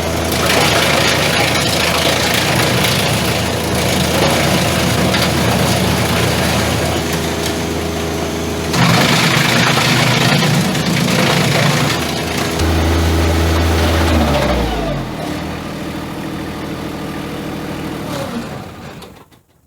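Tractor engine running a wood chipper, with a louder, rougher stretch about nine to twelve seconds in. Around fourteen seconds the pitch falls as the machine slows, and the sound cuts off just before the end.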